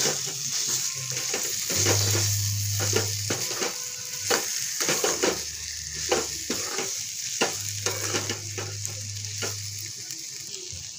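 Chicken pieces and masala sizzling in a steel wok while a metal spatula stirs them, scraping and knocking against the pan in repeated strokes about every half second.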